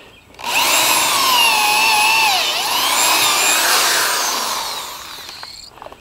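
Power drill driving a screw into wood: the motor whines for about five seconds, its pitch dipping under load about halfway through, then tails off and stops.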